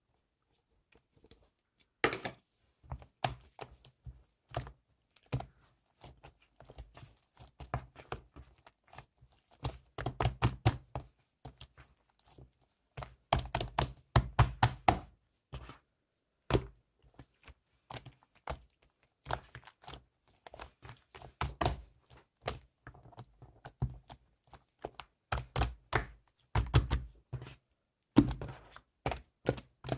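Irregular taps, clicks and dull thunks, often in quick clusters, from close handling of small hard objects.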